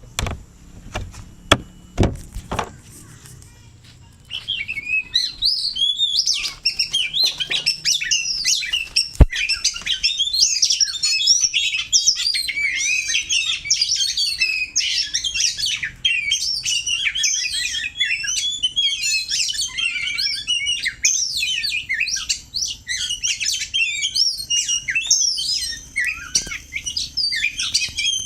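Oriental magpie-robin (kacer) singing a dense, rapid, varied high-pitched song from about four seconds in, after a few sharp knocks at the start.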